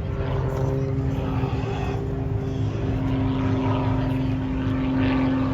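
Propeller airplane engine running with a steady drone, its pitch stepping slightly higher about halfway through.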